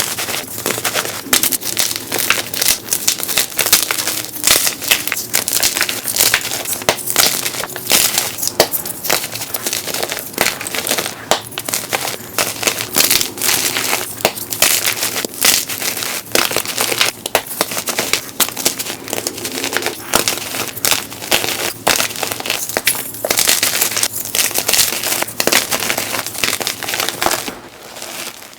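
Blocks of dyed gym chalk being crushed by hand: a dense run of soft, crunchy crackles and crumbles that goes on without pause and drops off just before the end.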